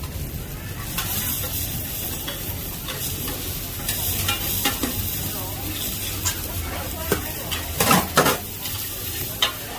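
Seafood pad thai sizzling as it is stir-fried in a wok, with a metal utensil scraping and knocking against the pan; two loud knocks near the end.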